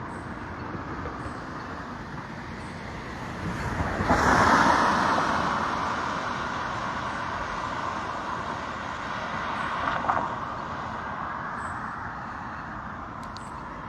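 Road traffic noise: a vehicle passes about four seconds in, swelling and then slowly fading, with a smaller rise near the ten-second mark.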